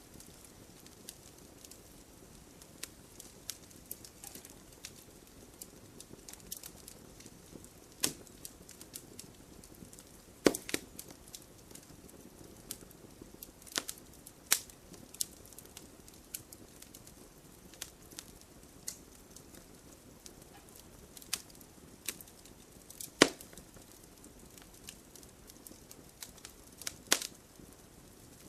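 Campfire burning with a low steady hiss and irregular sharp pops and cracks of wood, a few of them much louder than the rest.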